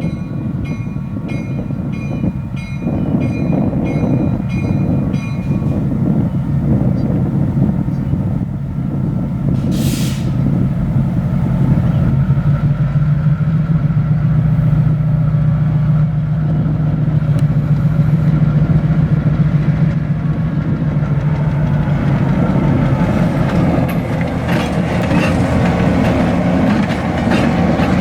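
EMD GP-7 diesel-electric locomotive running under way, its two-stroke 567 diesel engine drone growing stronger about halfway through as it pulls. For the first five seconds a bell rings steadily about twice a second, and a short hiss of air comes about ten seconds in.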